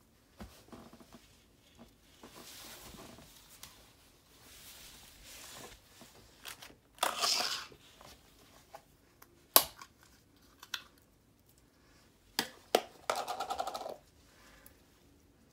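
Slime and its plastic tubs being handled as one slime is added to another: short sticky, crinkly tearing sounds and a few sharp plastic clicks. The loudest tearing burst comes about seven seconds in, and a rapid crackly burst comes just before the end.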